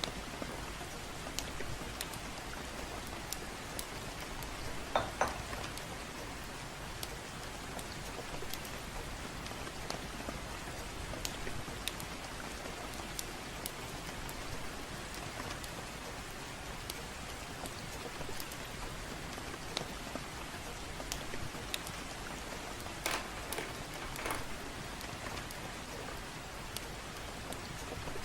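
Steady gentle rain with a crackling fireplace: scattered small crackles, and a few louder pops about five seconds in and again around three-quarters of the way through.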